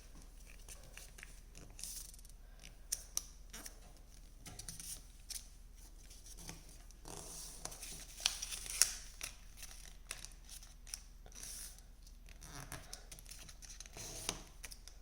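A square sheet of origami paper being folded and creased by hand: faint, irregular rustling of paper with a few short, crisp creasing sounds.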